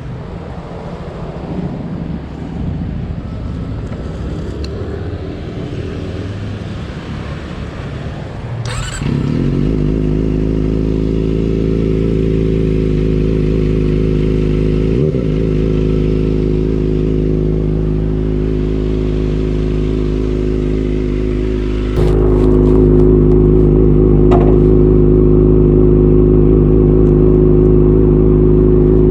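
Kawasaki ZX25R's inline-four engine through an aftermarket Leovince GP Evo exhaust, settling at about nine seconds into a steady, even idle after a rougher, unsteady stretch. It gets louder at about 22 seconds.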